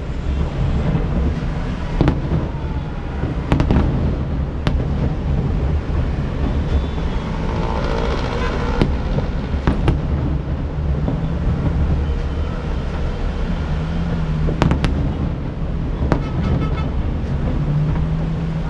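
Fireworks bursting over the bay: sharp single bangs at irregular intervals of one to several seconds, over a steady low rumble.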